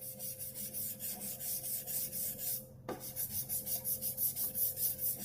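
A small brush scrubbing a sewing machine part in quick back-and-forth strokes, about four a second, to clear lint and dust. The scrubbing stops briefly a little before halfway, with a single light tap, then carries on.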